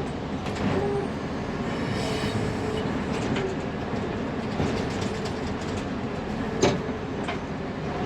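1999 Fermec TLK760 backhoe loader's diesel engine running under load, heard from inside the cab, with steady rattling and a whine that comes and goes. A sharp metal clank comes about two-thirds of the way through.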